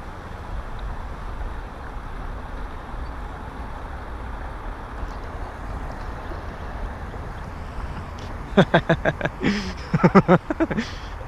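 Steady low rumble and hiss of wind on the microphone. About eight and a half seconds in, a man's voice makes a quick run of short, rapid vocal sounds lasting a couple of seconds.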